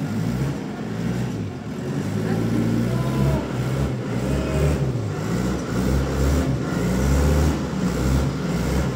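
A heavy engine running, its low drone shifting up and down in pitch as the revs change, with faint voices underneath.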